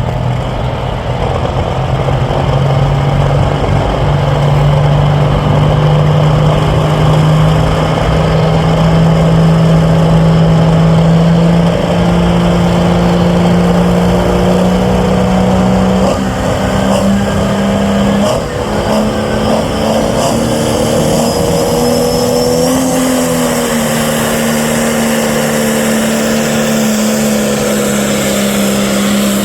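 Pro stock pulling tractor's diesel engine held at full throttle under the load of a pulling sled. It runs loud and steady, its pitch climbing slowly through the run with a brief dip about two-thirds of the way in.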